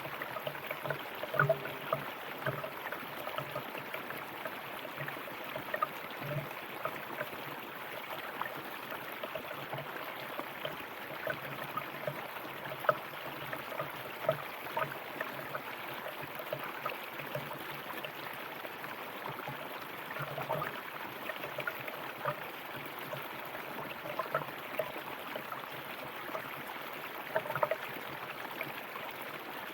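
River water flowing steadily over rocks, with many small irregular gurgles and splashes. A few slightly louder splashes come about a second and a half in, around six and thirteen seconds in, and near the end.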